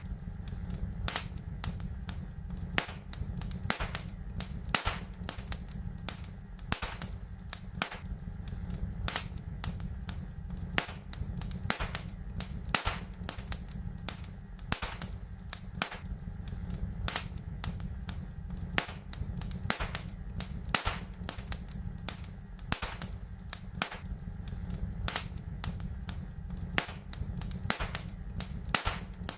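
Wood fire in a fireplace crackling: sharp, irregular pops and snaps, several a second, over a steady low rumble.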